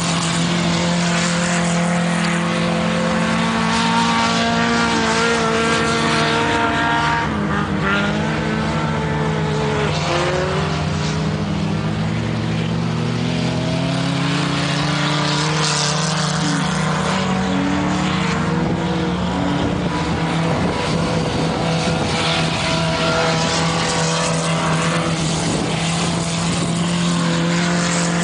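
Several ice-racing cars' engines running at once, loud and continuous, their pitch rising and falling as the cars accelerate and lift off around the track.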